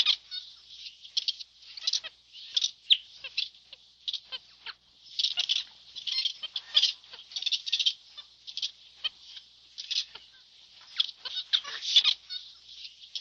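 Birds calling: a busy, irregular run of short, high-pitched calls, several a second, with brief pauses between clusters.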